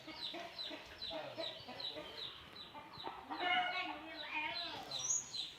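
Chickens clucking, with a steady series of short high peeps repeating a few times a second and a louder call about three and a half seconds in.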